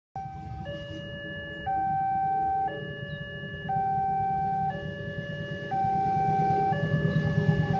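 Two-tone electronic warning alarm that alternates between a higher and a lower tone about once a second, the higher tone louder, over a steady low rumble.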